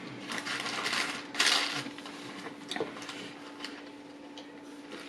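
Close-up handling and eating noises: short rustling and crinkling bursts, the loudest about a second and a half in, then a few light clicks, over a faint steady hum.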